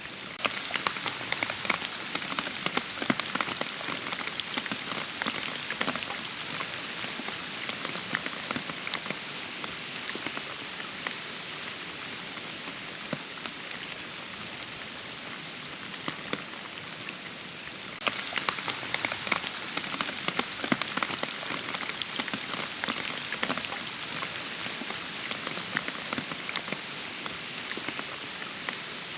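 Steady rain falling, with many separate drops pattering close by. It fades slowly, then abruptly grows louder and denser about 18 seconds in.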